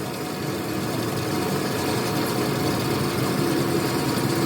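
A machine running steadily, with a low hum that grows gradually louder.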